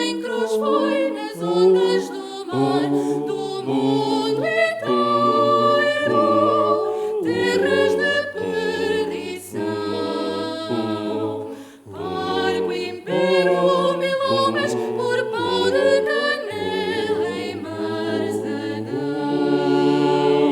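Vocal ensemble singing a cappella in several parts, with low sustained bass notes under the upper voices and a brief break in the sound about twelve seconds in.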